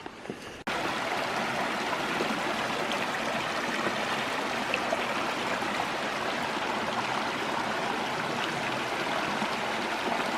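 Water of a small woodland creek cascade rushing and splashing steadily, starting abruptly under a second in.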